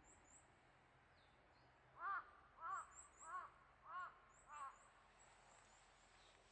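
A crow cawing five times in a row, evenly spaced about half a second apart, over faint outdoor background hiss.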